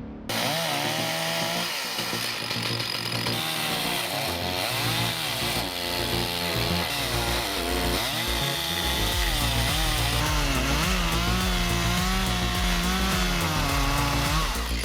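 Chainsaw running and cutting through a tree, its engine pitch rising and falling continually as the chain loads in the wood.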